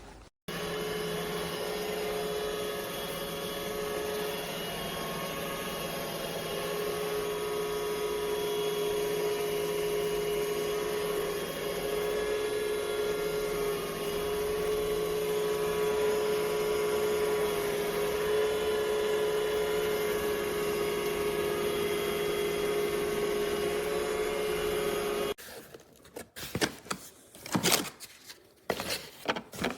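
A small electric motor running steadily with a constant hum, in the way a vacuum cleaner runs. It cuts off abruptly about 25 seconds in, and a few scattered knocks and clicks follow.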